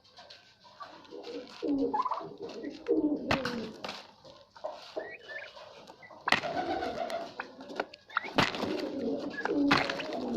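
Domestic birds giving repeated low, warbling cooing calls, with a few sharp knocks among them.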